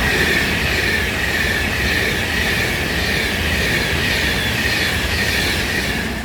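Class 390 Pendolino electric train passing through at speed, with a dense rumble of wheels on rail and a high whine that sinks slowly in pitch. It eases off near the end.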